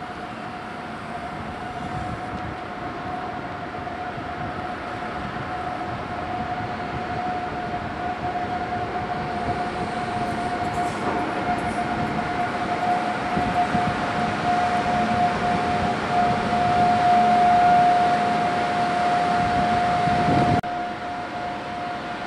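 A train approaching slowly into a station, a steady high whine over a rumble, growing louder as it nears, then dropping abruptly near the end.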